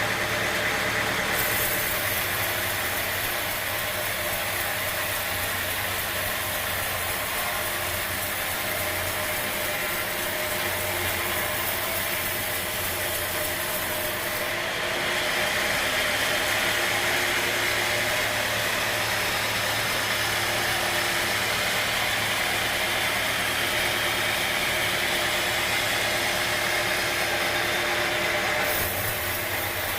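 Sawmill machinery running steadily with a hum and a hiss. There is no clear cutting stroke. The sound shifts slightly about a second and a half in, again about halfway through, and just before the end.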